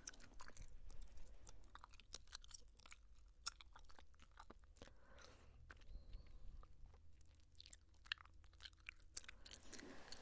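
Bubblegum chewing close to the microphone: irregular wet smacks and clicks of the mouth working the gum.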